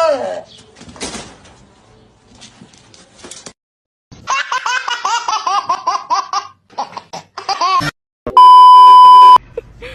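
A person laughing in quick repeated bursts, followed near the end by a loud steady beep tone lasting about a second.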